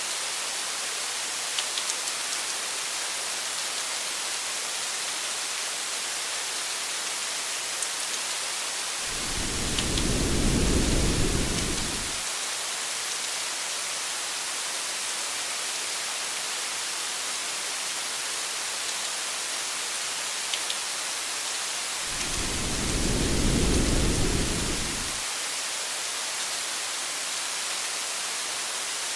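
Steady rain hiss with a few faint drop ticks, and two low thunder rumbles, about nine seconds in and again about twenty-two seconds in, each lasting around three seconds.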